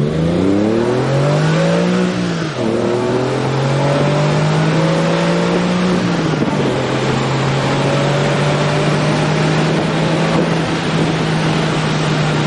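Porsche 996 Carrera flat-six through Fabspeed Maxflo aftermarket mufflers, accelerating hard: the engine revs climb, drop at an upshift about two and a half seconds in, climb again, drop at a second shift about six seconds in, then hold a steady pitch.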